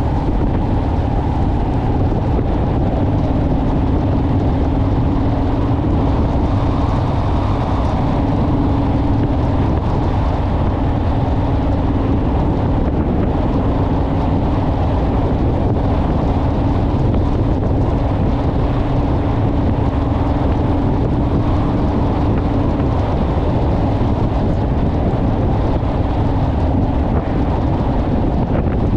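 Honda Rebel motorcycle cruising at a steady road speed: an even engine drone with a steady low tone, mixed with wind rushing over the microphone.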